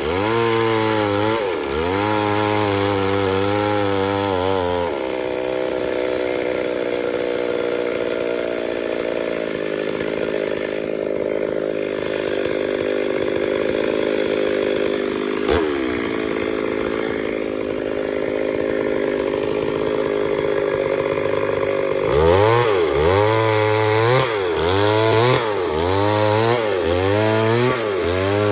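Chainsaw cutting wood. Its engine speed dips and recovers about once a second, holds high and steady through a long stretch of cutting, then dips and recovers again near the end.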